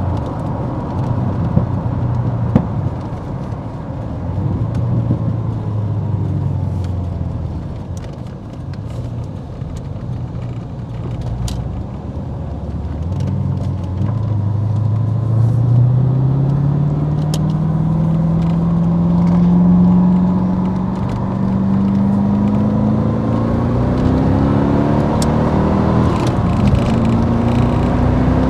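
Callaway twin-turbo C4 Corvette's V8 running on the road. Its pitch holds steady at first, then rises in a long climb from about halfway through, eases briefly, and climbs again near the end. Its cylinder 6 misfire has been cured with a replaced plug wire.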